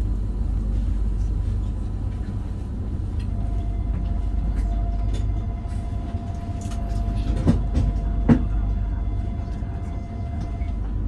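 Meitetsu Panorama Super limited express train standing at a station platform, with a steady low rumble from its equipment. A steady single tone sounds from about three seconds in until near the end, and two short sharp sounds come a little past the middle.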